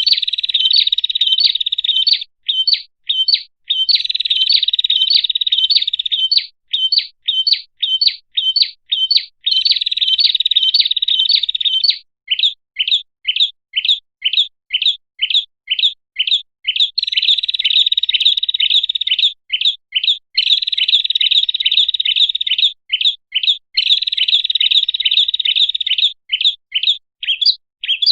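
Prinia (prenjak) call played as a bird lure: sharp chip notes repeated about three a second, broken several times by stretches of rapid trilling lasting about two seconds.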